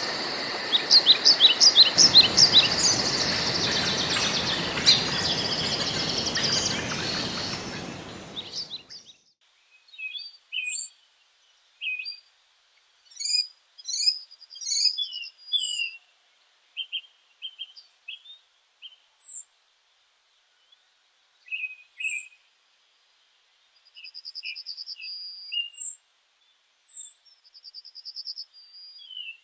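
Woodland songbirds chirping and calling in short whistled notes. For the first eight seconds or so a steady hiss runs under them and then fades out, leaving the calls on their own. Near the end come two quick trills.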